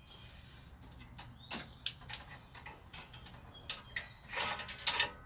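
Plastic retaining clips being snapped back into place by hand: a series of irregular sharp clicks and knocks, the loudest a pair near the end.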